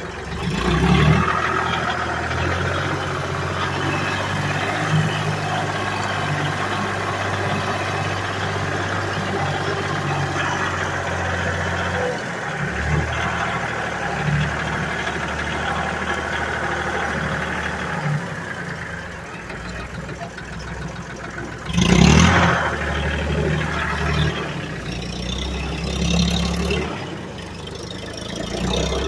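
Ford 1720 tractor's three-cylinder diesel engine running steadily, its pitch changing about twelve seconds in and again about eighteen seconds in. A brief loud noise comes about twenty-two seconds in.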